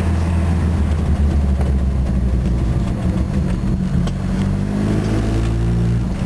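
Ford Mustang's turbocharged 2.3-litre inline-four running loud and low-speed through a broken exhaust whose muffler was wrecked by backfires, giving a raw, noisy note. The engine note climbs a little in pitch near the end.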